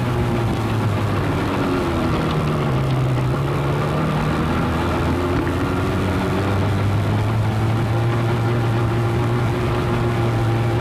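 Motorcycle engine running steadily while riding, heard from the bike, with wind and road noise over it. The engine note drops a little about halfway through, then holds steady.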